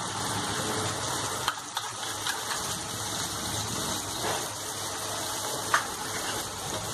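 Tomato puree sizzling in hot oil and fried onions in a kadai, a steady hiss, with a couple of light knocks as the bowl is tapped out against the pan.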